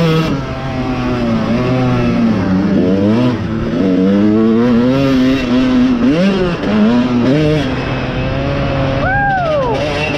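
Dirt-bike engines revving on a motocross track, the pitch climbing and dropping repeatedly as the bikes accelerate and shift. About nine seconds in, one engine's revs fall off sharply.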